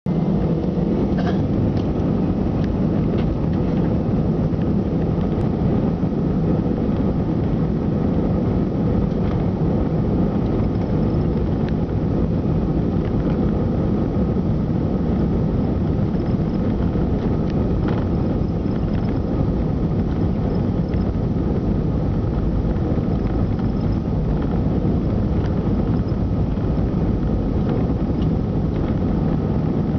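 Steady rumble of an Airbus A320's jet engines heard from inside the passenger cabin, with a faint steady whine over it.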